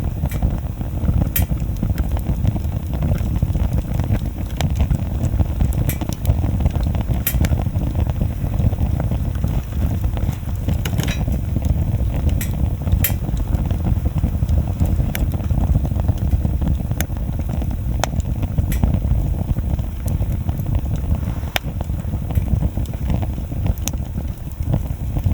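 Wood bonfire crackling, with sharp pops every second or two at irregular intervals over a steady low rumble.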